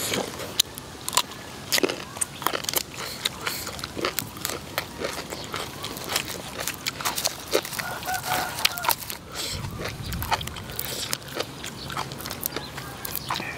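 Close, wet chewing and crunching mouth sounds: people eating raw beef omasum and liver with fresh vegetables and herbs. Many short crisp crunches and smacks come at an irregular pace.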